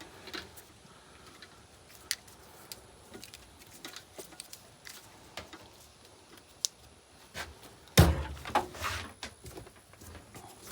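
Scattered light clicks and knocks of hand work, with one loud thump about eight seconds in followed by a short run of clattering.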